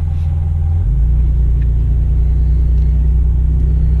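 Low, steady rumble of a 2004 Nissan Xterra's engine and drivetrain heard from inside the cabin as it pulls off on a test drive after a tie rod replacement. The pitch of the rumble steps to a new level about a second in.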